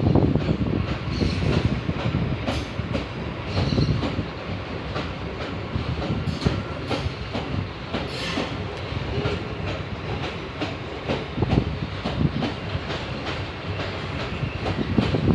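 Empty freight train's wagons rolling past, wheels clicking over the rail joints over a steady rumble. Louder at first, easing off through the middle and swelling again near the end.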